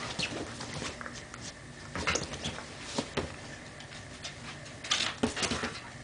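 Dog playing, making short, scratchy snuffling and scuffling noises, with the loudest bursts about two seconds in and again around five seconds in.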